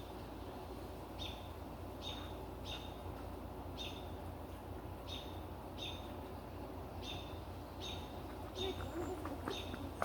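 A bird chirping over and over, about ten short high calls spaced unevenly, above a low steady background rumble.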